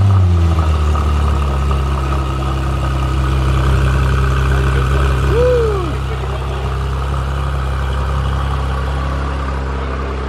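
2014 Porsche 911 GT3's flat-six engine idling steadily just after being started.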